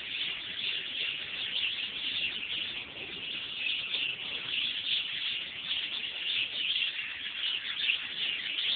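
Many birds chirping and calling at once, a dense continuous chatter of high-pitched chirps.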